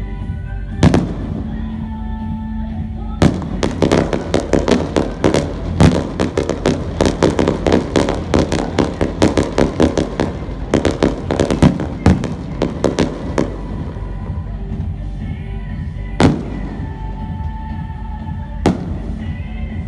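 Fireworks going off over background music: a single bang, then a dense rapid barrage of bangs for about ten seconds, then two more single bangs near the end.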